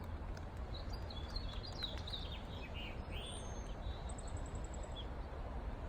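Small birds chirping over a steady low rumble, with a quick run of short chirps in the first three seconds. About four seconds in comes a rapid, very high trill of evenly spaced notes.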